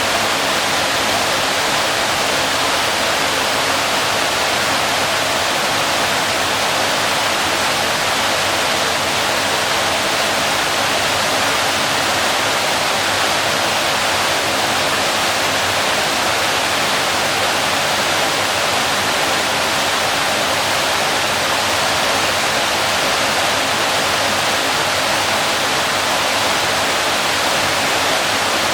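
Waterfall: water falling and splashing in a steady, even rush with no change throughout.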